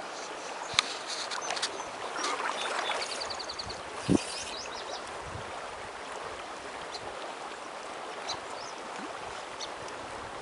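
River water flowing steadily over riffles. A few sharp clicks and a short run of quick, high chirps are heard about three seconds in.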